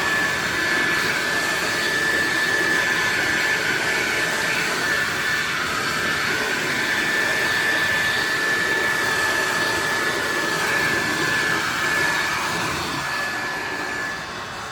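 Ryobi 2000 psi pressure washer running with a steady high whine over the rushing hiss of its spray, easing off a little near the end.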